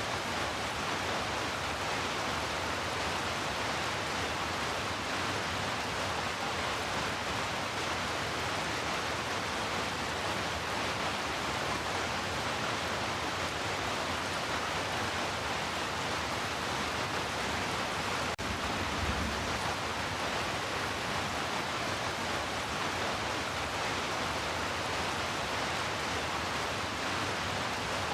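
Heavy rain falling as a steady, even hiss, with a brief low thump about two-thirds of the way through.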